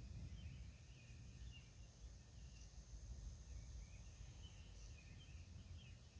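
Faint outdoor night ambience: a low steady rumble with scattered faint chirps from insects or birds and a thin steady high-pitched tone.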